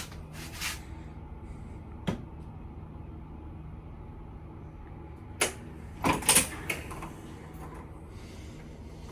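A handful of sharp knocks and clunks over a steady low hum, the loudest a quick double clunk about six seconds in.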